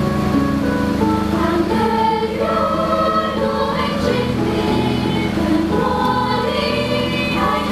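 A choir singing, several voices holding notes together over a steady low note.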